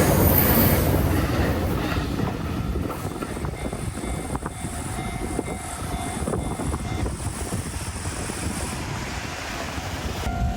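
A freight train rolling past on the rails, loud at first and then quieter as it moves on.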